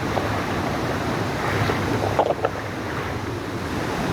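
Rushing creek water flowing over rocks, a steady noise with the stream running high after heavy rain, with some wind on the phone's microphone.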